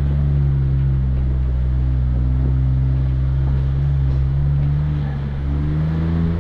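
Off-road vehicle engine running steadily at low revs, picking up slightly near the end.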